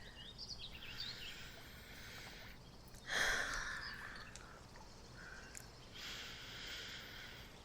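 Faint park and lake ambience with birds chirping softly, and a short breathy rush about three seconds in.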